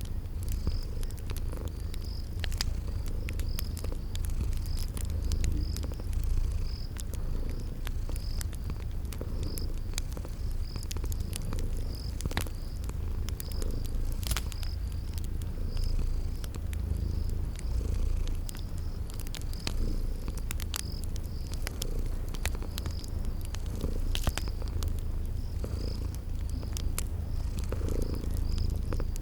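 A cat purring steadily, the low rumble swelling and easing with each breath. Over it, crickets chirp in an even high rhythm and a wood fire gives scattered sharp crackles.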